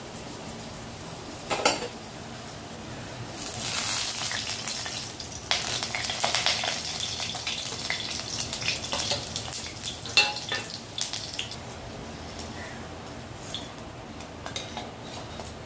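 Dal kebabs shallow-frying in oil in a steel kadhai, sizzling and crackling, loudest through the middle. A metal spatula scrapes and clinks against the pan a couple of times as the patties are turned and lifted out.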